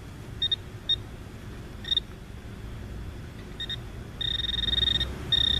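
Metal detector beeping with a single high electronic tone: a few short chirps in the first two seconds, then from about four seconds in longer steady beeps as it sounds off on a target in the ground.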